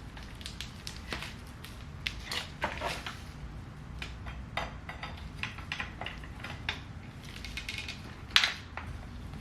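Irregular light metallic clicks and clinks of hand tools and parts being handled, with one sharper knock near the end, over a low steady hum.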